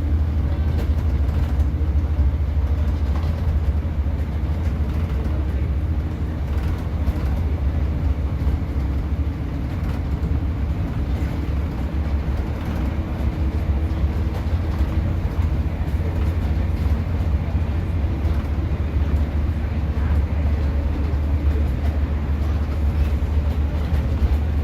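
Class 150 diesel multiple unit running along the line, heard from aboard: a steady low rumble of the underfloor diesel engine and wheels on rail, at an even level.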